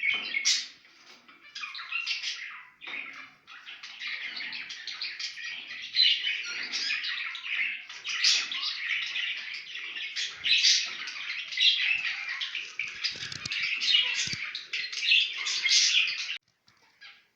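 Zebra finches calling together: many short chirping calls overlapping in a dense chatter that stops abruptly about a second before the end.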